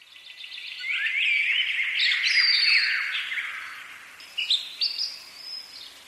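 Birds chirping and singing, a dense chorus of quick rising and falling calls that swells about two seconds in and then thins to a few short high chirps near the end.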